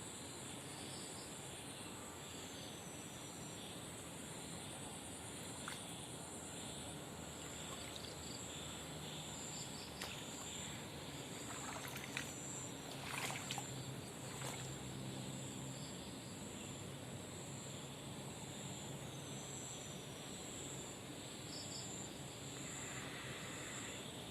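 Insects trilling in a steady, pulsing high band over a faint, even outdoor hiss, with a few soft knocks about halfway through.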